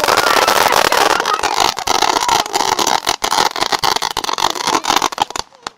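Firework going off with a loud, dense hissing and crackling that cuts off suddenly about five and a half seconds in.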